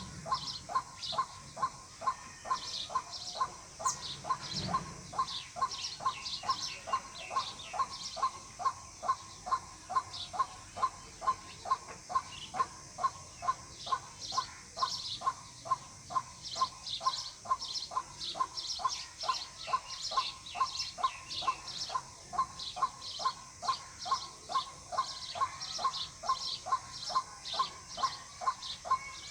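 White-breasted waterhen calling: the same short call repeated over and over at an even pace of about two a second, without a break.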